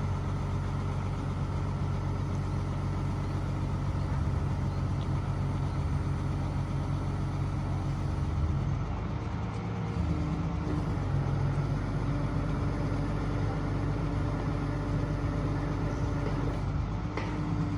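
Truck engine running steadily, its pitch shifting slightly about halfway through.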